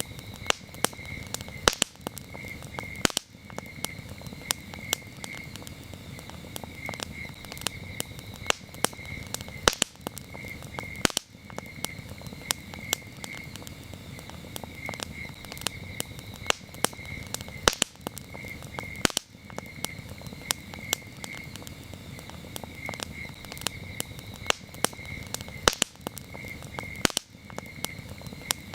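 Campfire crackling with many sharp pops and snaps over a low steady rush of burning, while crickets chirp in short repeated pulses.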